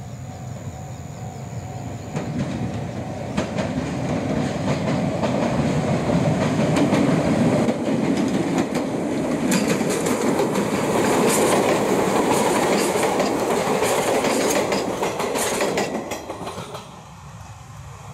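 Izuhakone Railway 7000-series electric train passing. Its rumble builds as it approaches, then comes a quick clickety-clack of wheels over the rail joints as the cars go by, and it fades about sixteen seconds in. A pulsing tone stops about three seconds in.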